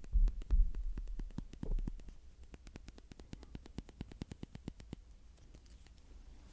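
Close-miked ASMR mouth sounds: a rapid run of sharp tongue and lip clicks at the microphone, after a few low thumps at the start, thinning out and fading after about five seconds.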